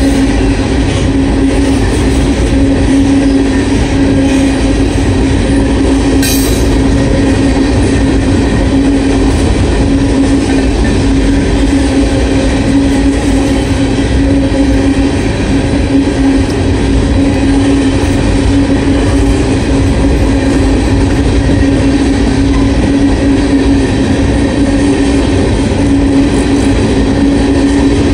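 Norfolk Southern freight train of hopper cars, which the uploader takes to be empty, rolling steadily past: a loud, continuous rumble and clatter of wheels on rail with a steady low tone. A sharp click sounds about six seconds in.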